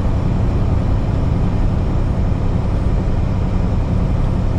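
Steady low rumble of a semi-truck's diesel engine, heard from inside the cab.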